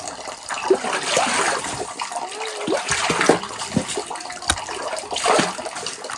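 Water splashing and trickling in uneven surges, like water being poured or sloshed.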